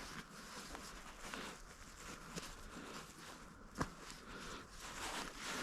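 Faint handling sounds as paracord is knotted onto a wooden stick tripod: light rustling and small scattered knocks, with one sharper click just under four seconds in.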